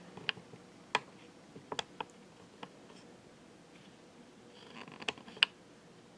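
Scattered sharp clicks and light knocks, about eight irregularly spaced, with the loudest about a second in and near the end: handling noise from positioning a camera on a tripod.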